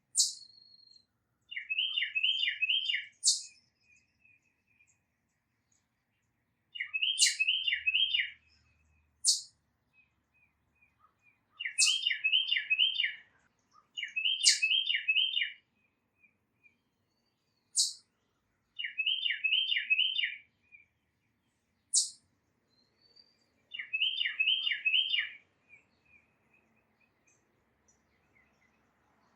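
Tufted titmouse singing its whistled 'peter-peter-peter' song: six short phrases of four or five repeated notes, a few seconds apart. Between them come single sharp, high call notes that slide down in pitch.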